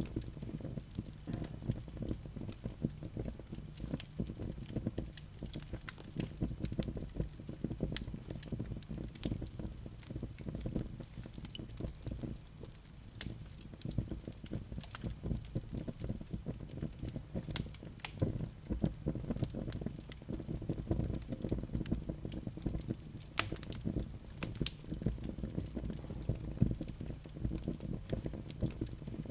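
Wood fire burning in a fireplace, crackling with frequent small pops and snaps over a low steady rumble of the flames.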